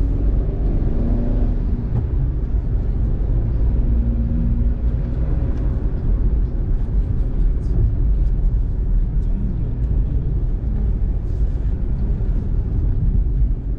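Steady low rumble of a car driving on a wet road, heard from inside the cabin: tyre and engine noise.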